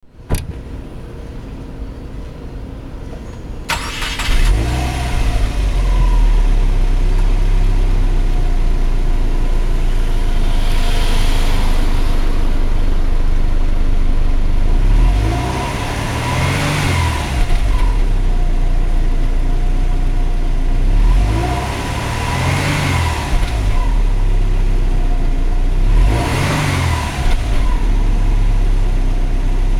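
Stock exhaust of a Subaru Legacy 2.5GT's turbocharged flat-four, heard at the muffler. The sound comes in sharply about four seconds in and then runs at idle with a deep low rumble. The engine is blipped several times, each rev rising and falling back to idle.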